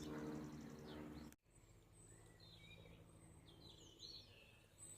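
Near silence: quiet room tone with a faint steady hum that drops out abruptly about a second and a half in, followed by faint, brief bird chirps and whistles.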